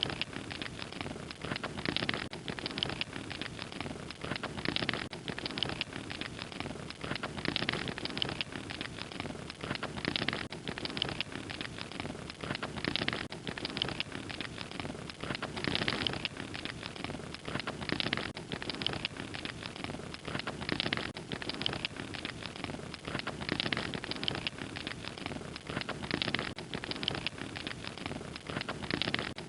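Open fire crackling: a dense run of small crackles and pops over a steady hiss, swelling slightly every couple of seconds.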